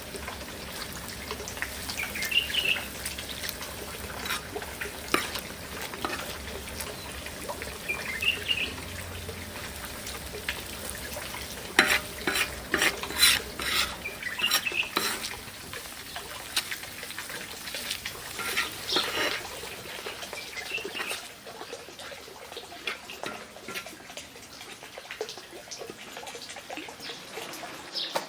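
Cooking at a pot: stirring, with the clink and scrape of a utensil against the pot. The clinks are sharpest and closest together about halfway through.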